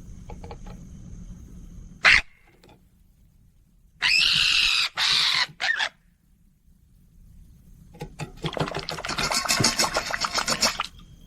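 Parrot screeching: a short call, then two loud harsh squawks about four seconds in, and near the end a longer run of rapid, pulsing calls.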